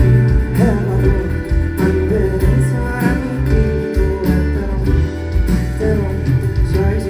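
Live band music through a concert sound system: bass, drums and guitar, with a singer's voice coming in and out.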